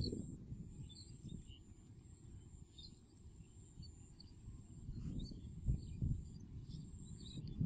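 Outdoor riverside ambience: a low rumbling noise, like wind on the microphone or flowing water, swelling a few times, with scattered faint bird chirps and a steady thin high whine.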